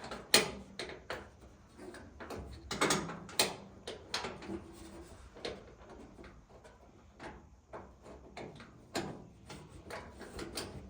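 Irregular metallic clicks and clunks of a door linkage rod and latch parts being worked by hand inside a truck door while trying to seat the rod in its hole. The loudest knocks come just after the start and around three seconds in.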